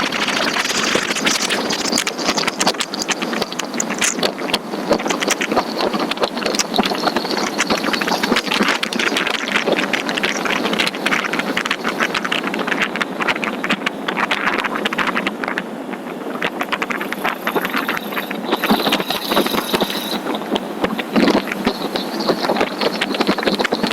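Riding a motorcycle at speed: steady wind rush over the microphone mixed with engine and road noise, with a constant scatter of small rattles and clicks.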